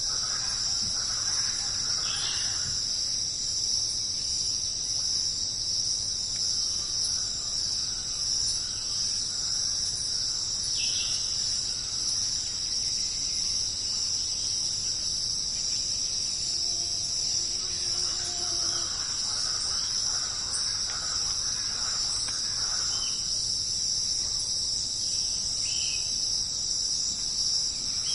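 Dense jungle insect chorus, a steady high-pitched shrilling that does not let up, with a few short chirps over it.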